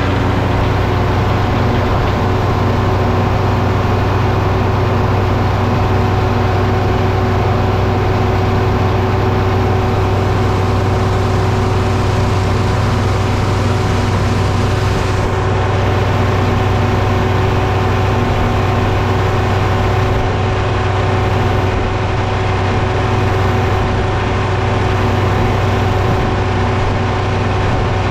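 Diesel engine running steadily at a constant speed, with an even drone.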